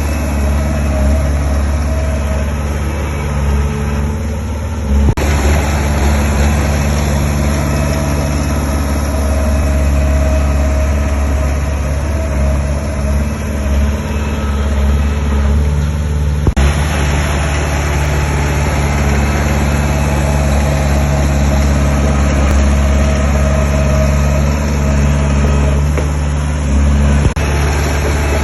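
Heavy diesel engines of earthmoving machinery, a bulldozer and dump trucks, running steadily with a low, even drone. A few short knocks about five, sixteen and twenty-seven seconds in.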